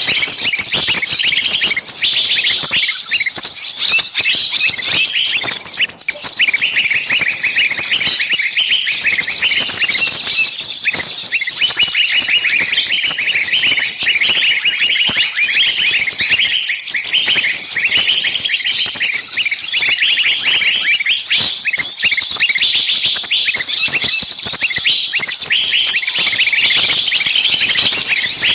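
Dense, continuous chorus of small songbirds chirping and scolding rapidly over one another, without a break. It is a noisy, agitated lure call made to sound like birds in distress, 'screaming as if caught'.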